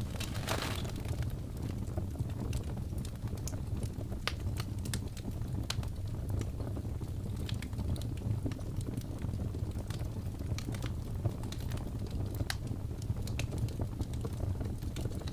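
Wood fire burning, crackling steadily with scattered sharp pops over a low rumble, and a short hiss about half a second in.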